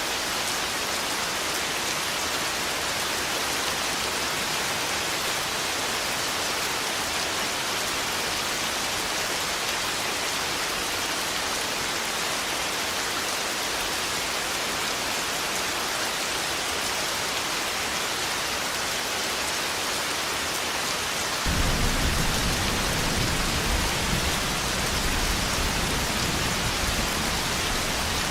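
Steady heavy rain falling. About three quarters of the way through, a deep rumble of thunder starts suddenly and rolls on under the rain to the end.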